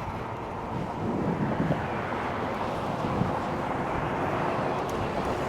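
Steady wind and road noise from riding an electric bike, a little louder from about a second in.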